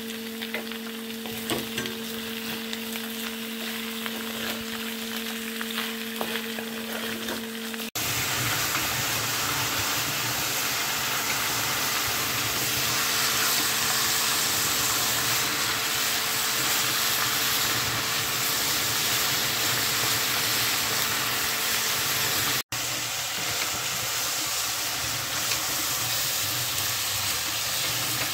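Chicken pieces sizzling as they fry in hot mustard oil in an iron kadai, with a wooden spatula scraping and stirring through them. The sizzle becomes louder and denser about eight seconds in, and a steady low hum runs under the first part.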